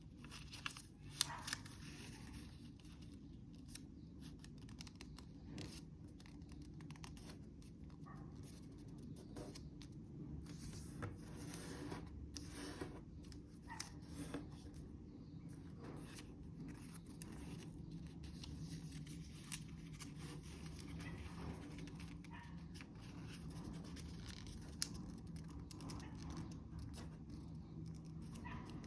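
A sheet of origami paper being handled, folded and creased by hand, with many short, faint crackles and scratches over a steady low hum.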